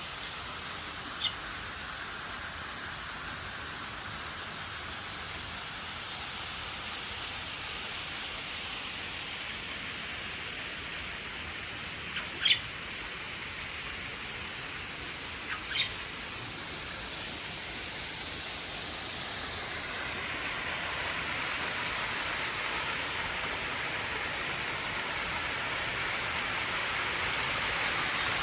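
Steady rush of flowing water that grows louder over the second half, with three brief, sharp bird calls, the loudest about halfway.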